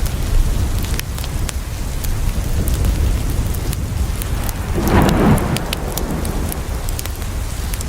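Steady rain falling on a window, with scattered sharp clicks, and a short rumble of thunder swelling and fading about five seconds in.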